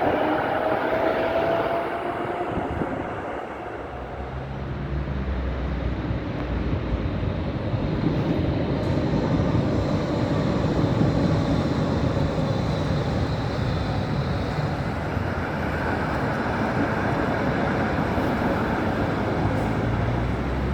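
Tram running on street track: a steady rumble of wheels and motor, with a faint rising whine in the first couple of seconds.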